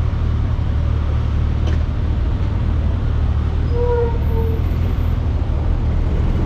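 A vehicle engine running steadily, a constant low rumble with road traffic noise.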